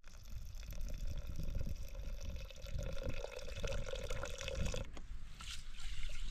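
Water running from a tap and splashing, with a steady filling tone that stops about a second and a half before the end.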